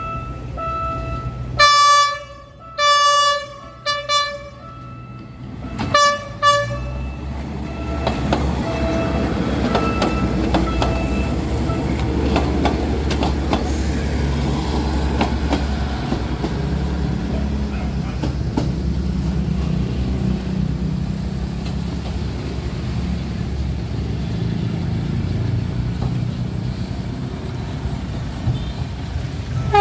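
PNR INKA diesel-hydraulic multiple unit (DHMU 8001) sounding several short horn blasts on its approach, then running past over the crossing with a steady low engine rumble and wheel clicks for the rest of the time.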